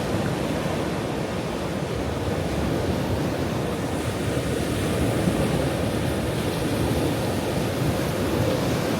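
Ocean waves washing on a shore: a continuous rush of surf that swells slightly about halfway through.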